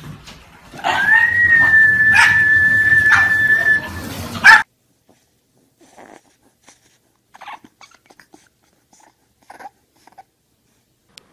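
A dog giving one long, high whine, held steady for about three seconds, with a few sharp knocks over it. The sound then stops suddenly and there is near silence.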